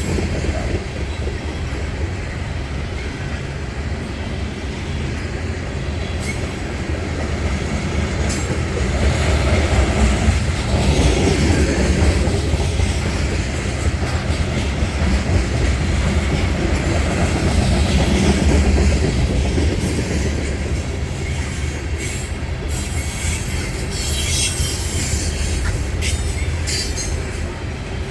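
A slow-moving train's cars rolling past, with a steady low rumble and wheel clatter. The rumble swells twice, and high wheel squeals and clicks come near the end.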